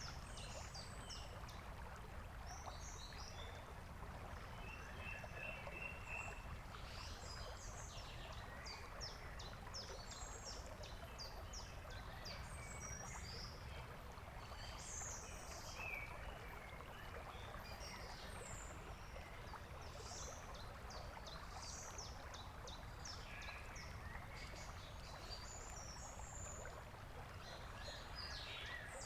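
Birds chirping in many short, high calls over a steady rushing noise.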